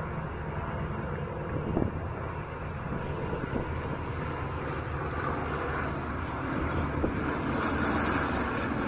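Airplane engine noise, a steady rumble that grows louder in the second half.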